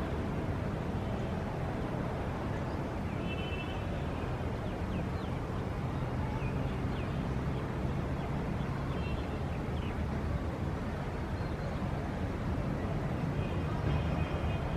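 City ambience: a steady low rumble of distant traffic, with birds chirping in short calls over it, most around four seconds in and again near the end.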